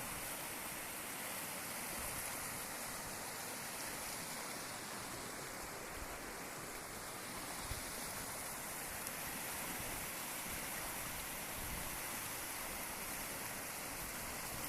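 Waterfall with its water level up, running steadily: an even rush of falling water.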